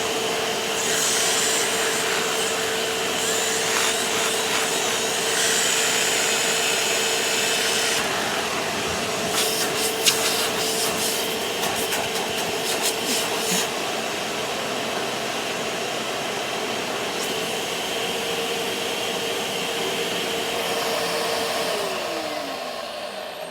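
Hoover WindTunnel 2 upright vacuum cleaner running steadily with its turbo brush attachment, with a spell of clicking and rattling from about 9 to 14 seconds in. Near the end the motor is switched off and winds down with a falling whine.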